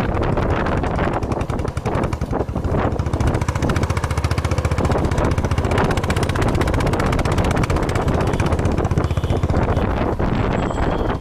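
Motorcycle engine running steadily on the move, in rapid even pulses, with wind buffeting the microphone.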